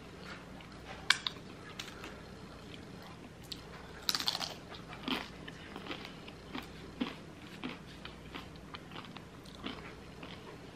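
Close-miked eating sounds: a person chewing and crunching curly fries, a scatter of small crackly crunches with a denser burst of crunching about four seconds in.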